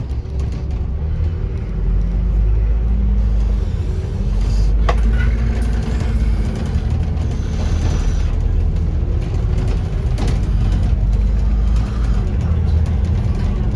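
Inside a Scania N230UD double-decker bus on the move: its five-cylinder diesel engine running under load with a steady low rumble. The engine note picks up about two seconds in. A sharp knock or rattle comes about five seconds in and again about ten seconds in.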